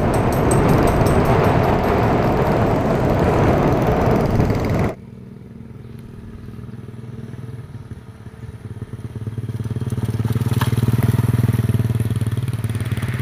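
Loud wind and road rush on the microphone of a vehicle following the trike. After a cut about five seconds in, the homemade three-wheeler's Honda Supra Fit single-cylinder four-stroke engine is heard approaching and passing close by, loudest near the end.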